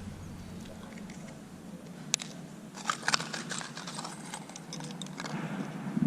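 Light handling sounds of a nail and foam part being set in place: a sharp click about two seconds in and a short cluster of taps about three seconds in, over a low steady hum.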